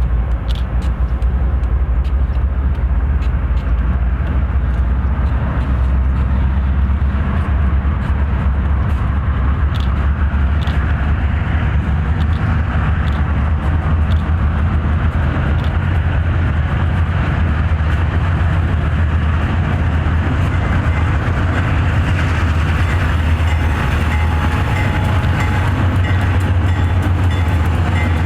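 Freight train of diesel-electric locomotives under way, a steady low engine drone over the rumble of wheels on rail. A faint repeating high ringing comes in near the end.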